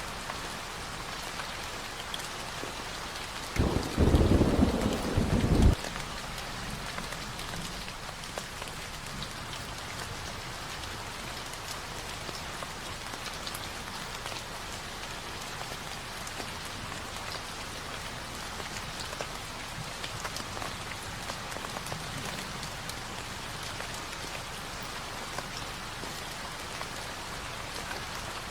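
Steady rain falling, from a rain ambience recording, with one low roll of thunder starting about three and a half seconds in and lasting about two seconds.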